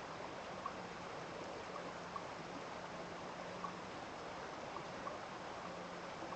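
Steady rush of flowing stream water, with short faint plinks of water dropping now and then.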